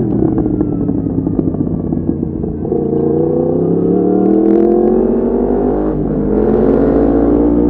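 Yamaha MT-10's crossplane inline-four through an Akrapovic exhaust, heard from the bike: a rough, off-throttle burble for about two and a half seconds, then the engine pulls up through the revs in a steadily rising note, with a brief dip about six seconds in before it climbs on, with wind noise rising near the end.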